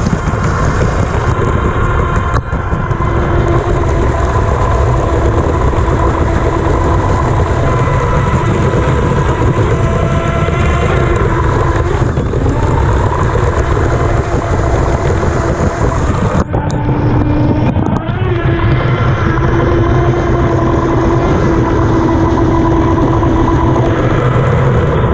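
Onboard sound of a 1/12-scale electric R/C unlimited hydroplane running flat out. The motor's whine wavers and shifts in pitch as the throttle changes, over a loud, constant rush of water and wind on the hull, with a thin steady high tone that drops out about two-thirds of the way in.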